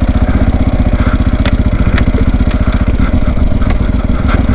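Dirt bike engine running with a fast, even pulsing beat. A few sharp knocks are heard along the way.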